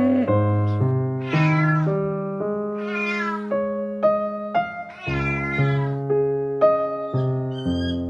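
Domestic cat meowing three times, each meow about half a second long, over gentle piano background music.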